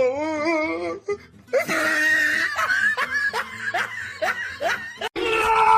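A person laughing in a string of short, repeated bursts. About five seconds in there is a sudden cut to a different held sound at several steady pitches.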